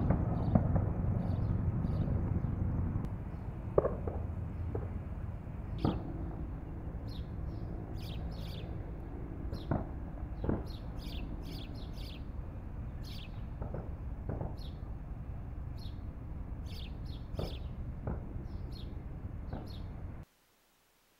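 Small birds chirping in short, repeated high calls over a steady low outdoor rumble. All sound cuts off abruptly near the end.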